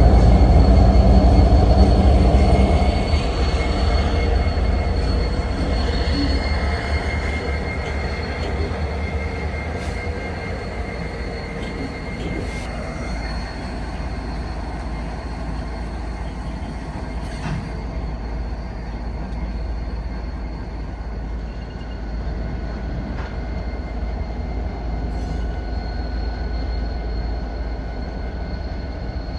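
Freight train passing: the low rumble of the diesel locomotives fades over the first three seconds, then the freight cars roll steadily by with a thin, high wheel squeal.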